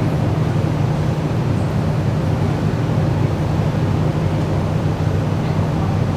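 Steady low hum and rumble inside an MRT train.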